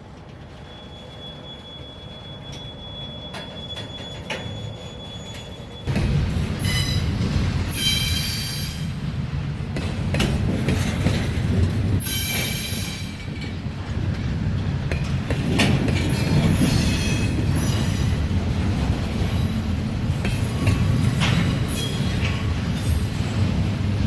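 Freight train rolling by on the rails: a low rumble of the cars with bouts of high wheel squeal and clacking over the rail joints. It starts fainter with one thin steady squeal, then turns abruptly louder about six seconds in.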